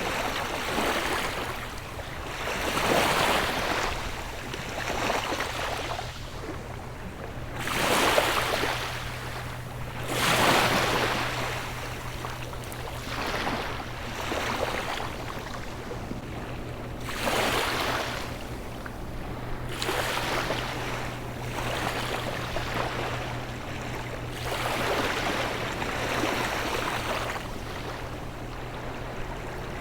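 Gentle sea waves washing onto the shore, surging and receding every few seconds, with the biggest wash about eight and ten seconds in. A steady low hum runs underneath.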